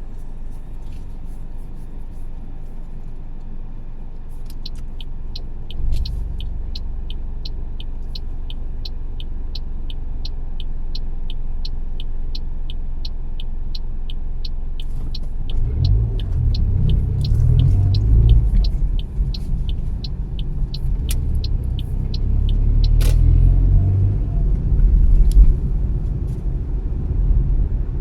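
Car on the move, with a steady low rumble of engine and road. For about ten seconds a turn-signal indicator ticks evenly, nearly three ticks a second. From about sixteen seconds in, the rumble grows louder as the car pulls away and picks up speed.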